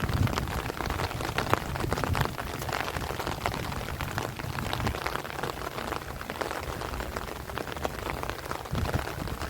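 Heavy rain falling steadily on rice plants and trees, a dense hiss of countless drops. A low rumble of strong wind gusts is heavy in the first two seconds, eases off, and builds again near the end.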